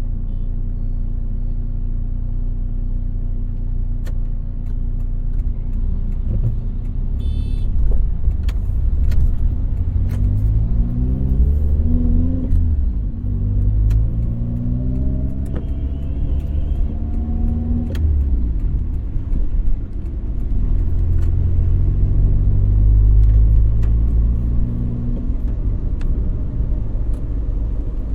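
Car driving, heard from inside: a steady low engine and road rumble, with the engine pitch rising twice as the car accelerates, about ten seconds in and again a few seconds later, plus scattered sharp clicks.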